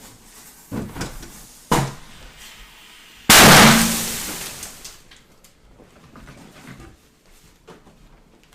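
Fireworks going off: two sharp knocks, then about three seconds in a sudden very loud blast that hisses and fades over a second or so, followed by scattered small pops and crackles.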